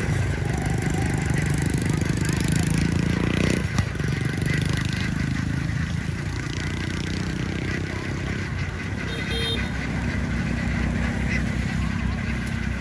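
A vehicle engine running steadily, with ducks calling now and then.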